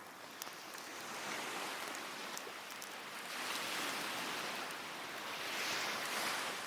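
Small waves washing up the beach in three rising and falling swells of hiss, the last one loudest near the end. Now and then a faint sharp crackle comes from the burning cedar and oak wood fire.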